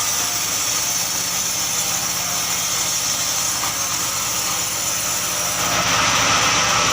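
An engine running steadily at an even pitch, with a bright hiss over it, getting a little louder near the end.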